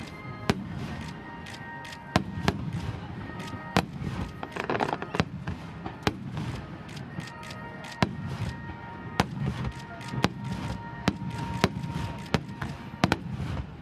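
Large aerial firework shells bursting in a rapid starmine barrage: over a dozen sharp bangs at uneven intervals over a dense, continuous rumble.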